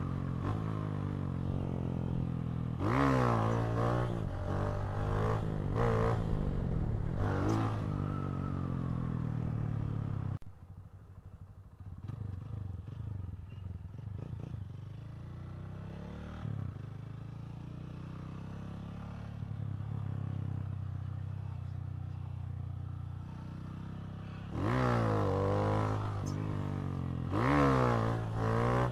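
Honda CG 160 Titan's tuned single-cylinder four-stroke engine revving hard, its pitch climbing again and again as it is run up through the gears. In a long middle stretch it drops to a quieter, steadier running note, then climbs again near the end.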